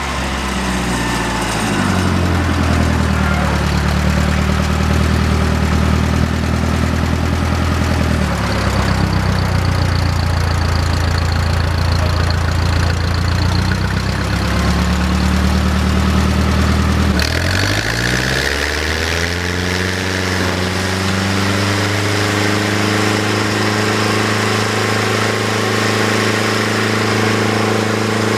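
Engine running throughout, its speed changing a few times: it drops about a third of the way in, then dips and climbs again about two-thirds of the way through before settling.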